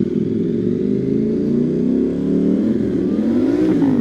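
KTM 790 Duke parallel-twin engine running under way, its pitch sliding as the rider works the throttle. Near the end it revs up steeply and then drops, as the gearbox is accidentally knocked into neutral.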